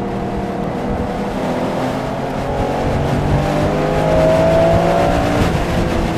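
Porsche engine heard from inside the car on a race track, pulling hard under acceleration with its pitch rising steadily for a few seconds. Near the end the pitch drops as the throttle lifts, over steady road and wind noise.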